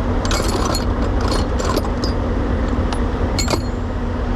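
Metal tools and sockets clinking in short bursts, several times, as a toolbox is rummaged through, over the steady low idle of a truck's diesel engine.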